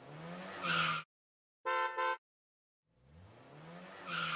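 Intro sound effects: a rising, engine-like revving sound that cuts off, two short horn-like beeps, then the rising sound again.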